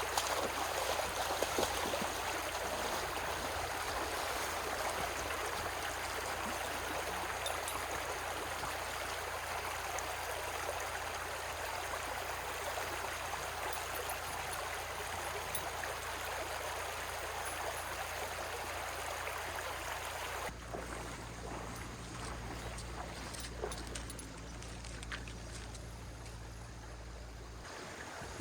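Mountain valley stream flowing steadily over its bed. About twenty seconds in it suddenly becomes quieter and softer.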